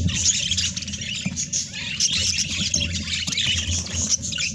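Budgies chirping and chattering continuously, several calls overlapping, over a steady low hum.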